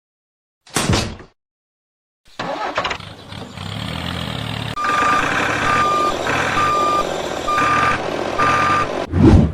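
Truck engine running, joined about halfway through by a reversing alarm beeping steadily, about one beep a second. A short sudden sound comes about a second in, and another near the end.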